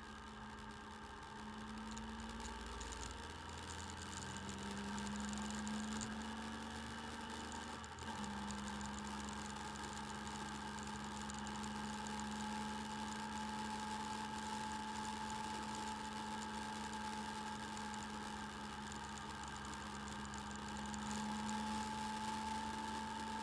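Motorcycle engine running steadily while riding, picked up by a camera mounted on the bike: a steady hum with a thin whine above it. About eight seconds in the sound dips briefly and the pitch steps down a little.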